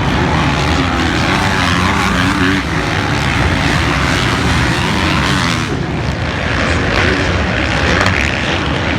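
Motocross dirt bike engine running hard, its pitch rising and falling with the throttle.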